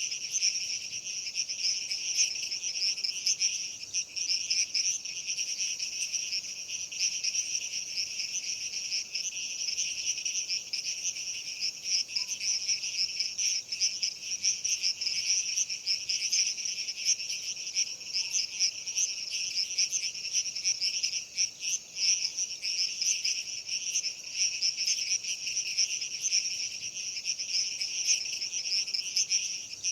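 A dense, unbroken chorus of chirping insects, a shimmering rapid trill with no pauses.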